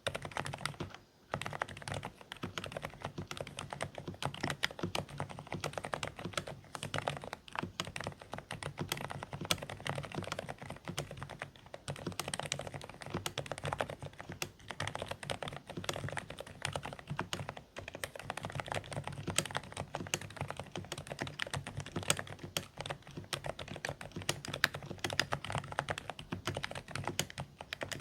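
Continuous, rapid typing on a Dareu A104 Pro mechanical keyboard with low-noise beige switches. The keystrokes are fairly quiet and somewhat muffled. There is a brief pause about a second in.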